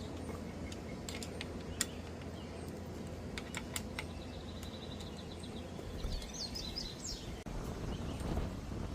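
Outdoor ambience with steady low background noise and a handful of light, sharp clicks and taps in the first few seconds; a bird chirps several times about six seconds in.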